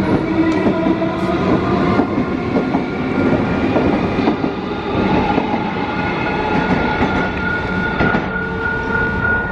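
Train passing over a railway level crossing, with the clatter of wheels on the rails and several steady whining tones running under it; one high whine grows stronger in the latter half.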